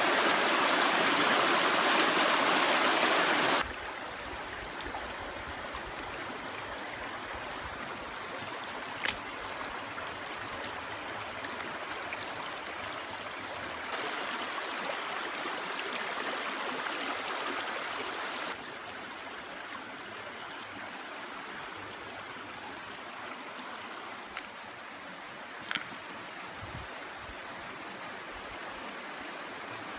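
Running water of a stream, a steady rushing that drops in level suddenly about three and a half seconds in, rises again about halfway through and drops once more soon after. Two short clicks stand out over it.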